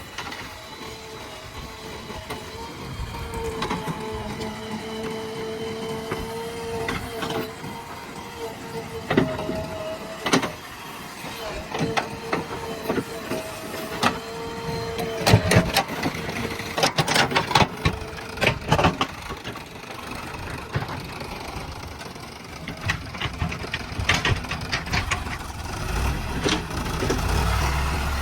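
JCB backhoe loader's diesel engine running under work, with a steady whine that comes and goes in the first half. A run of sharp metallic clanks and knocks falls around the middle, and the engine grows louder and deeper near the end.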